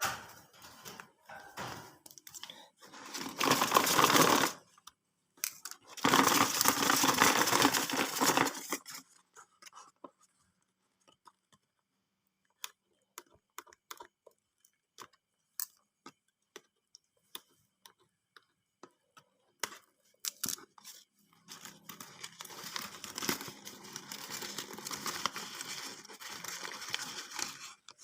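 Cardboard and paper bird packaging being torn open by hand: two loud ripping stretches, then scattered small clicks and a long spell of rustling and crinkling.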